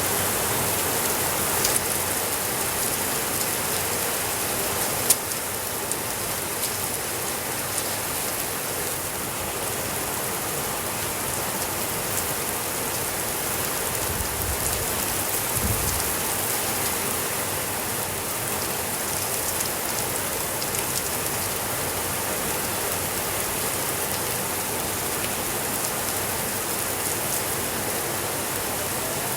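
Steady heavy rain, an even hiss with scattered sharp clicks, the loudest about five seconds in, and a brief low rumble around the middle.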